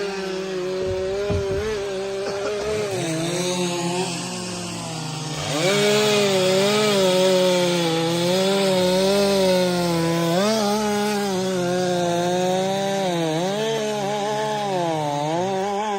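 STIHL MS 462 C-M two-stroke chainsaw running at high revs while bucking firewood, its pitch sagging and recovering again and again as the chain bites into the wood. It drops briefly about four seconds in, then comes back louder about five and a half seconds in.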